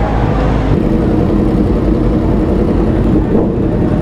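Yamaha R6 sportbike's engine running steadily at low revs.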